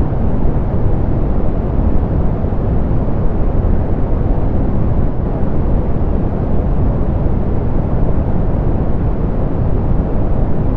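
Steady, softened pink noise: an even, unchanging hiss weighted toward the low end, dark and muffled with the highs rolled off.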